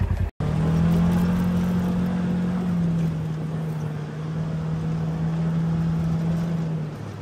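A motor running with a steady, pitched hum over a rushing noise, its pitch wavering slightly. It drops away near the end.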